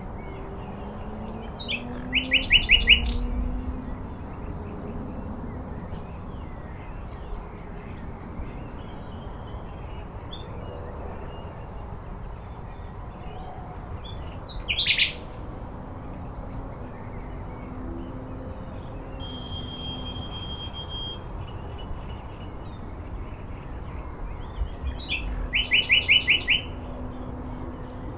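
Birds calling outdoors over a steady low background: faint high chirping throughout, a loud burst of rapid repeated calls about two seconds in and again near the end, and one sharp call about halfway through.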